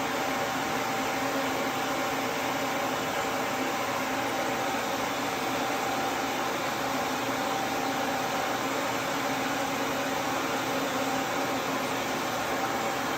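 Duz V3 pet dryer's blower running steadily: a constant rush of air with a faint hum under it.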